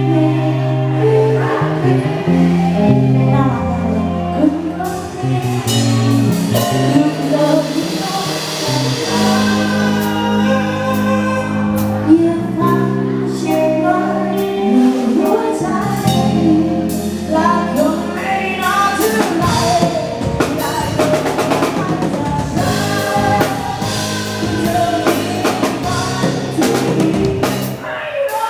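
Live band music with a singer, bass and drum kit; the drums come in more strongly about two-thirds of the way through.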